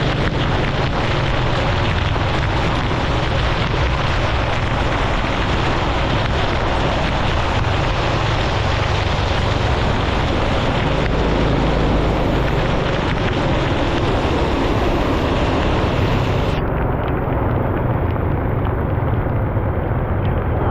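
Motorbike riding at speed: wind rushing over the action camera's microphone, mixed with the engine and tyre noise. Near the end the highest part of the hiss cuts off suddenly while the rush carries on.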